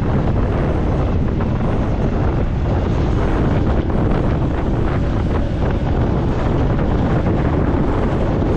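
Loud, steady wind buffeting the microphone of a camera riding on a moving motorbike, a deep rumbling rush with no clear engine note.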